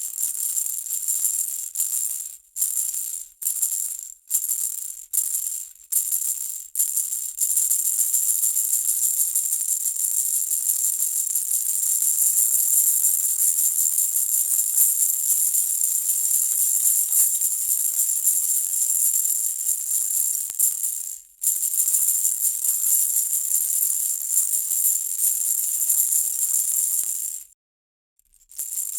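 Baby's toy rattle shaken, a bright jingly rattle: separate short shakes in the first several seconds, then continuous shaking with one brief break about two-thirds of the way through and a moment of silence near the end.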